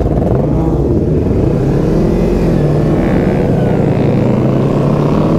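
Kawasaki ZX-25R's inline-four engine revving as the motorcycle accelerates past other bikes, its pitch rising and falling several times in the first second or so, then climbing more steadily.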